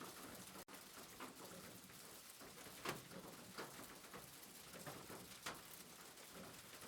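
Soft, steady rain with a few louder single drops landing, and the sound cutting out for an instant just under a second in.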